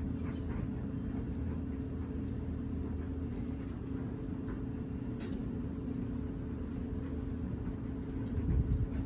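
A steady low hum runs throughout, with a few faint sharp clicks scattered through it and a louder low rumble near the end. The clicks fit a parrot's beak nibbling at food.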